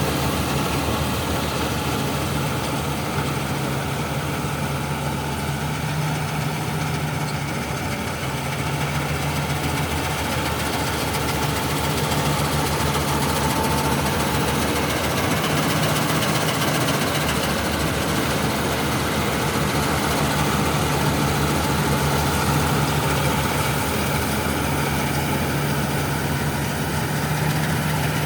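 John Deere 5405 tractor's diesel engine running steadily at a constant speed, driving a Balkar chaff cutter chopping paddy straw.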